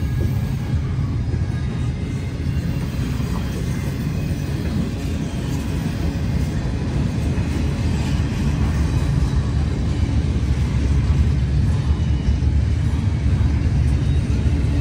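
Manifest freight train cars rolling past with a steady low rumble of wheels on rail, growing slightly louder near the end.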